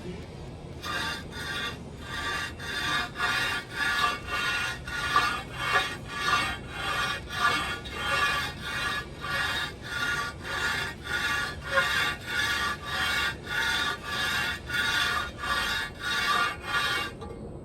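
A Ford Model A's cast-iron manifold rubbed back and forth on rough concrete in steady rasping strokes, about three every two seconds, grinding its warped mating face flat. The strokes start about a second in and stop just before the end.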